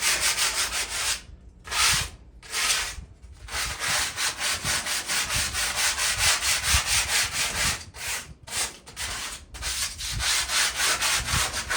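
Sandpaper rubbing back and forth over a rusty metal patio table, taking off surface rust. It goes in quick, even strokes, in runs broken by a few brief pauses.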